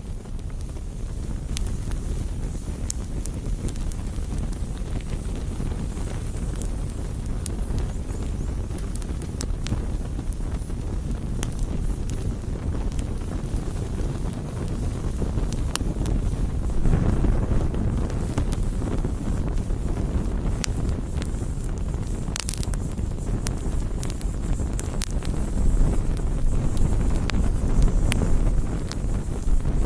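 Wood campfire burning, with scattered sharp crackles and pops over a steady low rumble; one louder pop about 22 seconds in.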